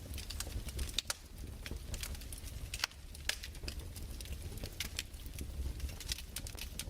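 Fireplace fire crackling: irregular sharp pops and snaps, some louder than others, over a low steady rumble.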